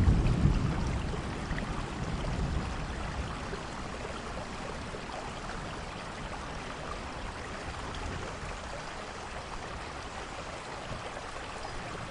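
Steady rain falling, with a roll of thunder that rumbles loudest at the start and fades away over the first few seconds.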